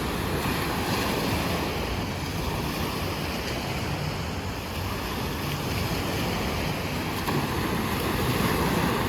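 Wave pool surf washing steadily onto the beach.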